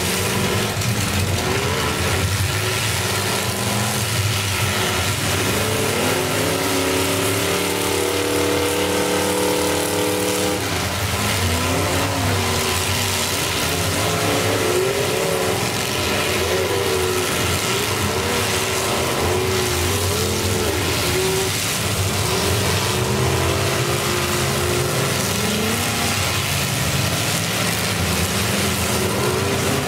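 Several demolition derby cars' engines running and revving together, their pitch rising and falling as the cars drive and push against each other, with one engine held high for a few seconds near the middle.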